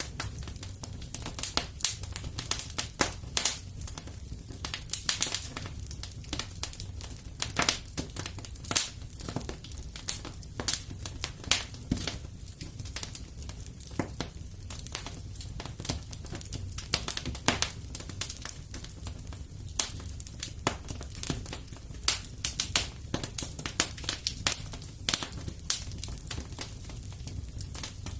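Wood fire in a fireplace crackling: a dense, irregular run of sharp pops and snaps over a low steady rumble of the flames.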